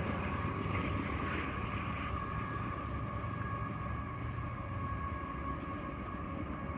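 Freight train cars rolling past close by: a steady rumble and clatter of wheels on the rails, with a faint steady high ringing tone above it.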